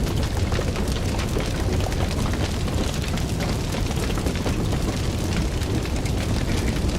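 Fire burning with a steady low rumble and dense, continual crackling and popping.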